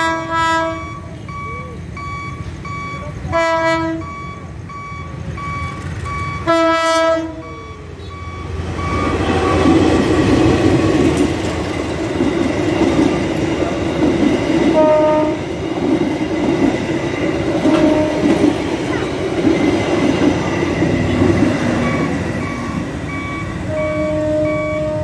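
Level-crossing warning alarm beeping over and over while an approaching diesel-hauled passenger train sounds its horn in three short blasts. From about eight seconds in, the train passes close by: a loud rumble and clatter of wheels on rails that drowns out the alarm.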